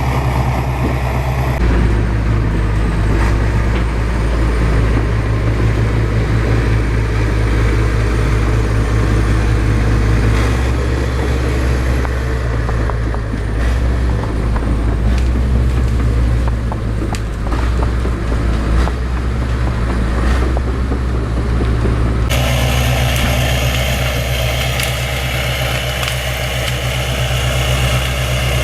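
Heavy diesel engine of a bulldozer running steadily, with scattered faint clanks. The sound changes abruptly twice, about two seconds in and again about three-quarters of the way through.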